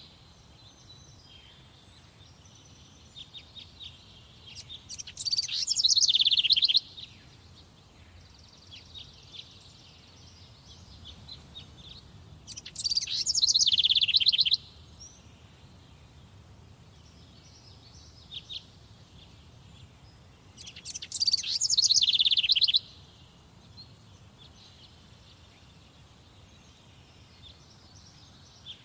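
Songbirds singing: one bird repeats a loud song phrase of about two seconds, a rapid run of notes falling in pitch, three times at intervals of about eight seconds. Fainter chirps from other birds fill the gaps.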